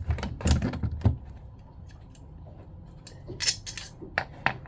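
Small parts of a Jabsco diaphragm pump clinking and knocking as they are handled and fitted together during reassembly: a cluster of clicks at first, then a few more sharp clicks near the end.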